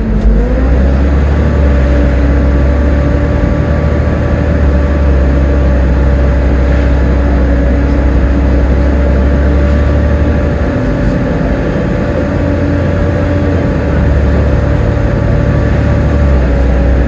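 Volvo B7TL double-decker bus under way, its 'Hoover' whine rising at the very start and then holding at one pitch, over a heavy low rumble.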